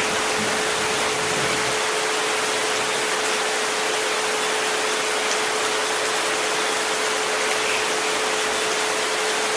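Steady hiss of rain sounds with one continuous pure tone held beneath it, the 432 Hz frequency, unchanging in pitch and level.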